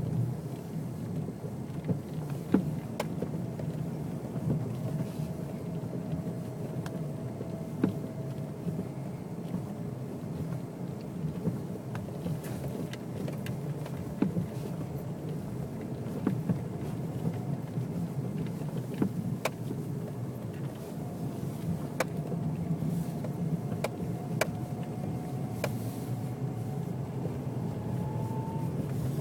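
Mazda Millenia running, a steady vehicle noise with a faint whine that rises near the end. Sharp single knocks come every few seconds at irregular intervals; this is the knock that is still there.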